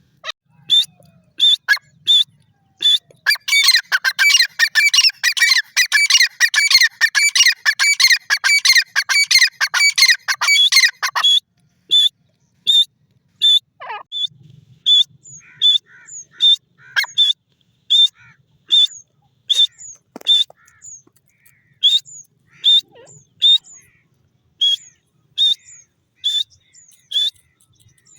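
Grey francolin calling: a few sharp calls, then a fast, dense run of calls lasting about eight seconds. After that come single short high notes repeated one or two times a second until near the end.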